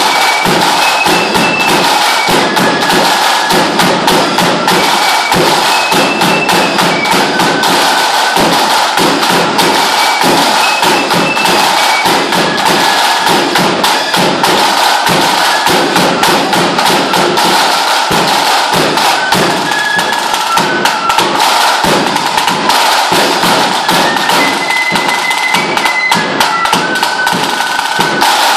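Lambeg drum beaten with canes in a fast, unbroken stream of loud, dense strokes, with a high piping tune played over it.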